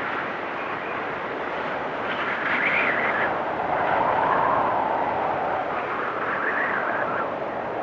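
Blizzard wind blowing steadily, with gusts that swell and fade: louder surges about two and a half seconds in, again around four seconds in, and more faintly near the end.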